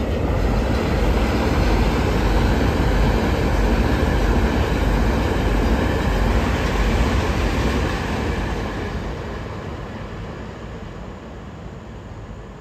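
Taiwan Railway EMU3000 electric multiple unit passing at speed: a steady rumble and rush of wheels on rail. It fades gradually over the last few seconds as the train pulls away.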